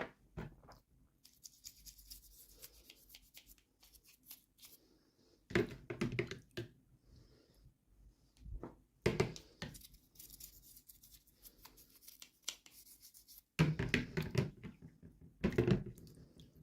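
Hands opening toy packaging: plastic crinkling and tearing with clicks and handling knocks, coming in short separate bursts with quiet gaps between them.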